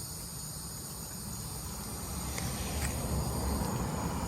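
Evening insect chorus, a steady high-pitched drone of several overlapping tones. A low rumble under it swells in the second half.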